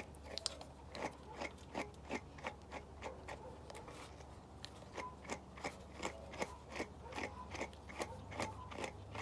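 A brush being stroked repeatedly through a bichon's curly coat, giving short scratchy swishes at an even pace of about two to three a second.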